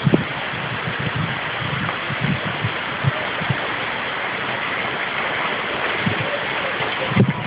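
Heavy rain pouring steadily in a thunderstorm, with a few short low thumps near the start and again near the end.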